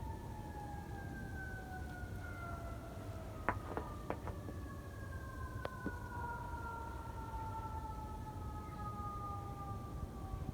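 A siren winding down: one tone falling slowly and steadily in pitch, with a few faint clicks in the middle.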